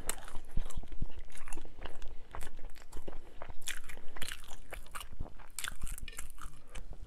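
Close-up chewing of a mouthful of homemade paleo sope: many small, irregular crunches and wet mouth clicks, with no speech.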